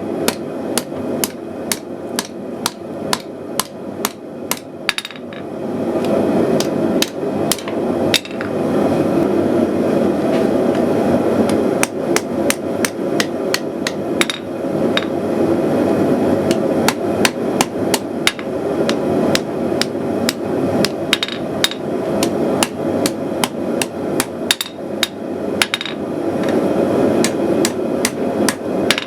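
Hand hammer striking hot steel bar on an anvil in quick runs of blows, a couple a second, with short pauses between runs. Under the strikes a gas forge burner runs steadily; it is louder for most of the middle of the stretch.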